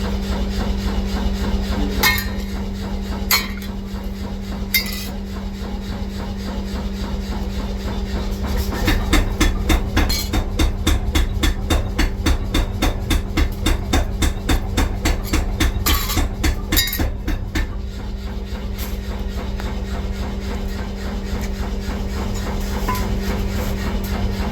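Rapid hammer blows on metal, about four a second for some eight seconds midway, with a few single strikes before and after, over a steady machinery hum.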